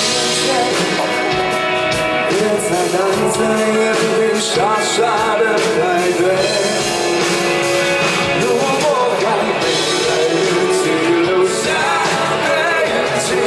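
A rock band playing live, with singing over guitars and drums.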